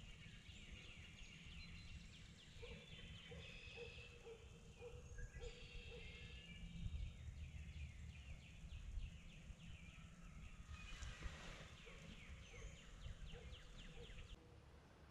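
Faint birdsong: several birds singing and chirping over a steady low rumble, with a run of repeated lower notes a few seconds in.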